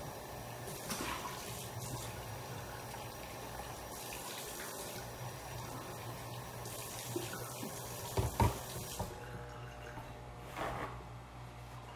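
Water running from a tap into a sink, shut off about nine seconds in, with a few knocks just before and one after.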